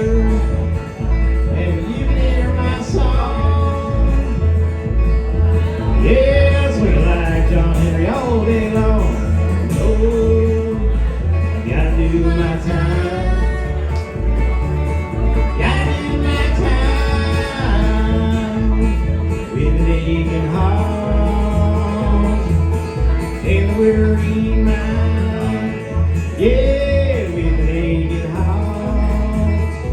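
Acoustic bluegrass band playing an instrumental break: acoustic guitar and banjo carrying the melody over a bass line that alternates between notes on the beat.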